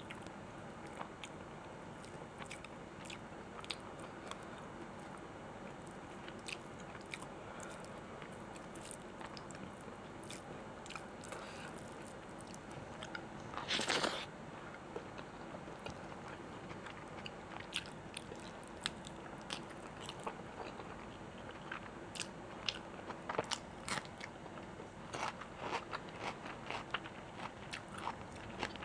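Close-miked eating sounds: a person chewing and biting into food, with many short wet clicks and crunches. There is one louder, longer crunchy burst about halfway through, and the clicks come thicker near the end.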